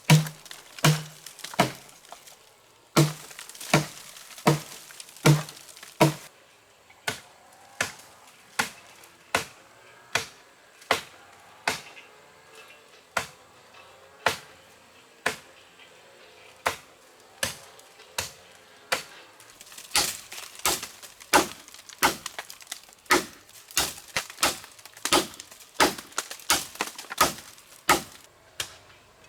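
Repeated chopping strikes on wood, about one to two a second, quickening near the end; the first several blows land with a heavier thud.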